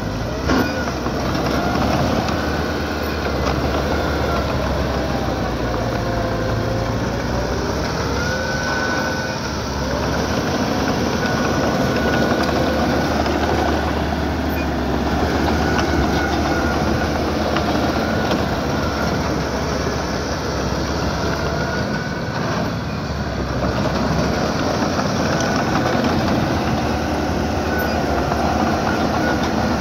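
Small bulldozer's diesel engine running steadily while its steel tracks rattle and clank, with squeals that waver up and down in pitch on and off.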